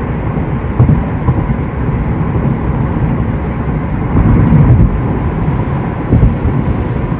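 Heavy low rumble of a moving vehicle, road and wind noise, with a few louder jolts about a second in and again around four to five seconds in.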